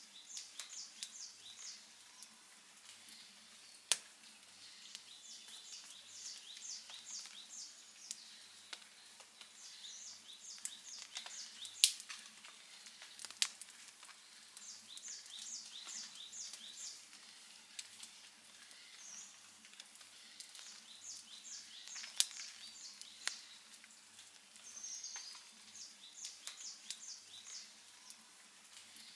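Outdoor wood campfire crackling and hissing softly, with sharp pops, the loudest three at about 4, 12 and 22 seconds in. High chirping in quick runs of short notes repeats every few seconds behind it.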